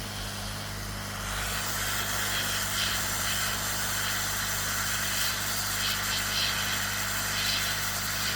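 Hot air rework station blowing: a steady airy hiss that starts about a second in, over a constant low electrical hum.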